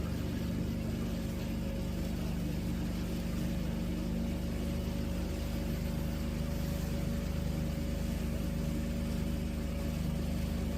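Passenger motorboat's engine running steadily under way, with a constant low hum of several even tones under a broad rush of noise.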